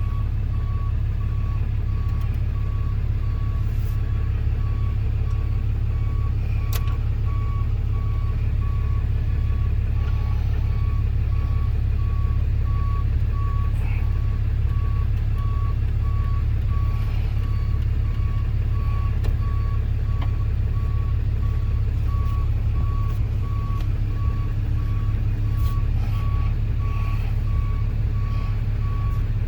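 A tow truck's reversing alarm beeping at an even, steady pace over the low, steady rumble of its running engine.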